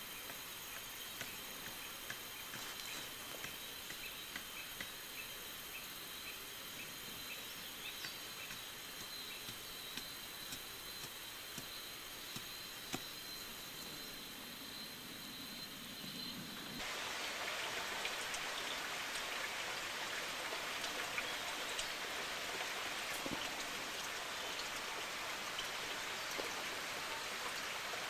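Insects shrilling in steady high tones, with a quick train of chirps over them. About seventeen seconds in, the sound cuts abruptly to a louder, steady rushing hiss like running water or rain.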